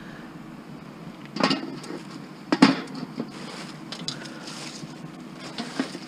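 Scrap metal being handled and loaded: two loud clunks about a second apart, the second the louder, with lighter knocks and rattles around them.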